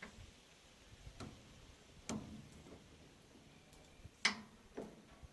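Five or so scattered sharp clicks and light knocks, the loudest about four seconds in, from hand work on a round baler's drive chain and tensioner.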